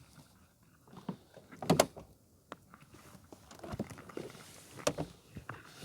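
Scattered clicks, clunks and rustling of someone working a van's cab door and getting in, with a louder double clunk about a second and a half in. The engine is not running.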